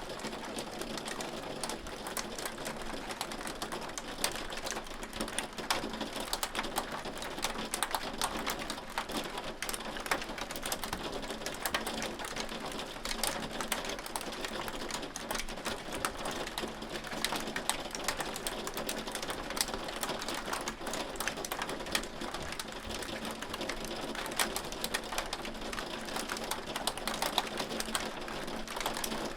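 Hail falling: a dense, steady rattle of hailstones striking, many sharp irregular ticks each second.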